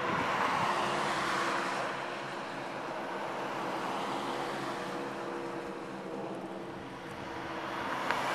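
Propeller aircraft engine droning steadily, with a rushing noise that is stronger at the start and swells again near the end.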